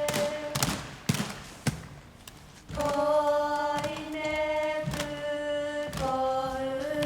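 A few sharp knocks that ring briefly, then sustained sung notes, each held about a second before moving to the next pitch.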